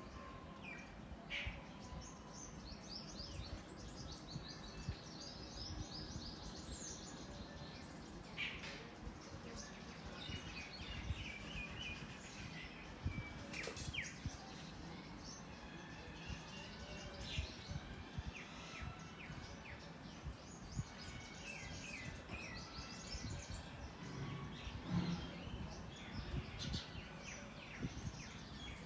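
Small birds chirping and twittering on and off throughout, over a steady low background rumble, with a few brief clicks.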